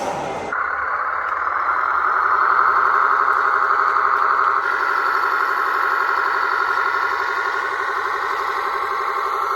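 Radio-controlled model truck running, a steady engine-like sound with a fast even pulsing and little deep bass, starting abruptly about half a second in and growing a little louder about two seconds in.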